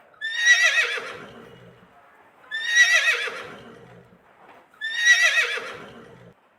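Horse whinnying three times, the same high, wavering neigh repeated a little over two seconds apart, each trailing off over about a second and a half.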